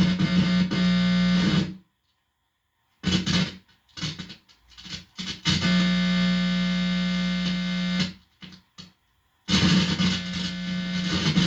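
Guitar amplifier putting out a loud, distorted, steady buzz with a low hum pitch as the bare tip of a guitar cable touches skin. The buzz stops dead a couple of seconds in, comes back choppy and then steady, drops out again near the end and returns.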